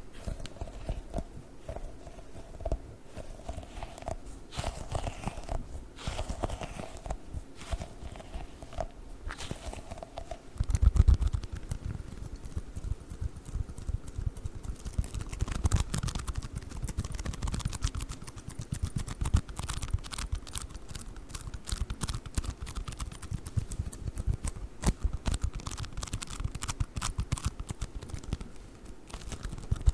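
Sticky globbles toys being squished and peeled apart by hand. About 11 s in there is a brief loud thump, and then play foam made of tiny foam beads crackles densely as it is squeezed and pulled apart.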